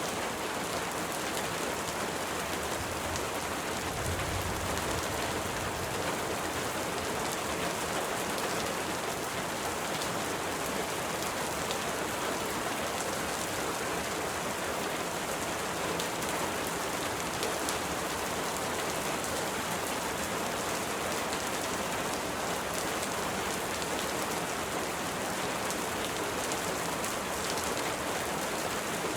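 Steady rain falling, an even dense hiss of drops without letup, with a brief low rumble about four seconds in.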